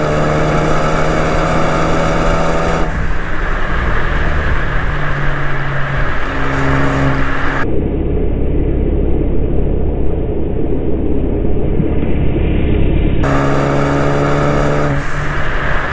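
Car engine pulling under acceleration, its pitch climbing steadily, then breaking off suddenly about three seconds in. A duller stretch of engine and road rumble follows, and another rising pull comes near the end.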